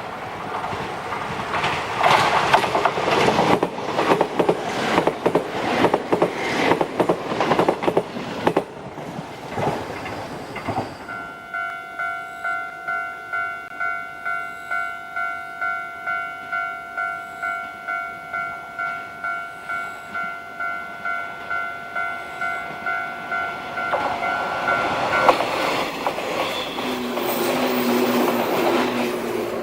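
A train runs past with rhythmic wheel clatter for about the first ten seconds. Then a railway level-crossing alarm rings in steady electronic dings, about two a second, and stops near the end as train noise rises again.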